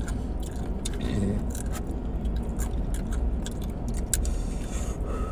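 Close-up chewing and biting of crunchy fried chicken wings, with many small sharp crunches, over a steady low rumble.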